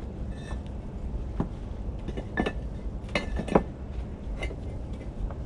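Bricklaying: a steel trowel clinking and tapping against bricks and mortar, about six sharp knocks with a short metallic ring, two of them close together a little past the middle.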